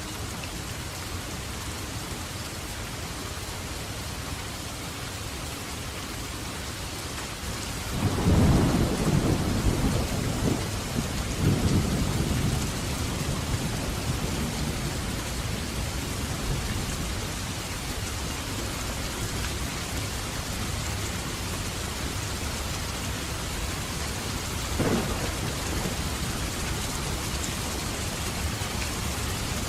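Steady rain falling, with a long peal of thunder rumbling about eight seconds in and dying away over several seconds, and a shorter clap of thunder near the end.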